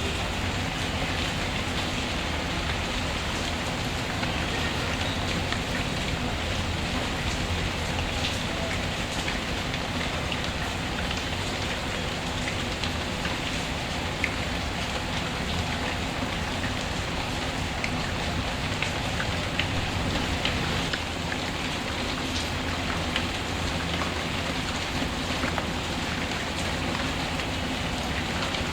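Steady heavy rain with a wood fire crackling: a constant rushing patter with scattered sharp pops and snaps.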